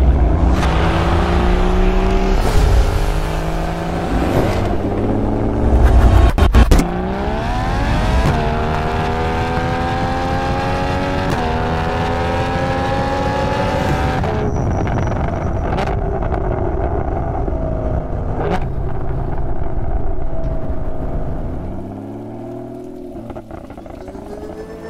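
Porsche Cayman's flat-six engine revving and accelerating. There is a deep low rumble and heavy thumps in the first several seconds, then the pitch climbs steadily as the car pulls and drops off about halfway through. Music takes over near the end.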